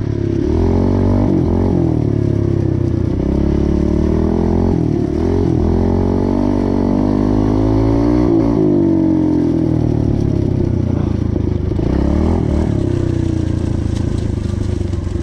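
Dirt bike engine being ridden hard, its pitch rising and falling over and over as the throttle is opened and closed.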